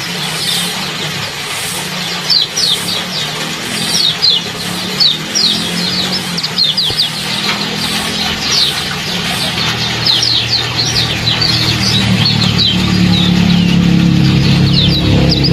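A small songbird gives rapid runs of short, sharp, falling chirps, over and over. A low steady motor-like hum builds up under it during the second half.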